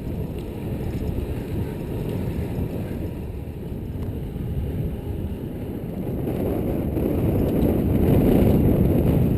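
Wind buffeting the microphone while riding a mountain bike, a steady low rumble that grows louder in the last few seconds.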